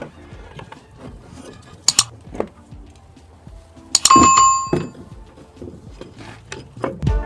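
Scattered knocks and clinks of metal tools and parts, with one sharp metallic clang about four seconds in that rings briefly.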